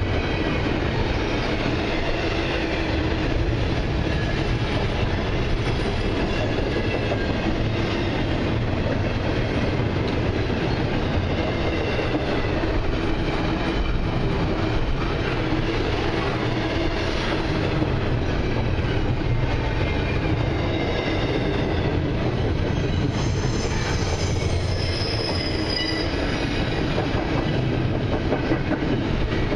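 Double-stack container well cars of a freight train rolling past at close range: a steady rumble and clatter of steel wheels on rail, with thin high-pitched wheel squeals coming and going, clearest about three-quarters of the way through.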